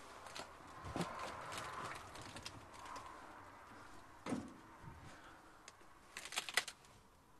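Scattered knocks and clicks of things being moved about: a thump about a second in, a sharper knock past four seconds, and a quick run of clicks near the end.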